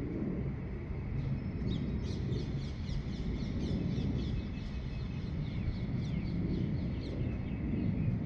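Birds singing at dawn: a rapid run of short, downward-sweeping chirps starts about a second and a half in and carries on until near the end, over a steady low rumble.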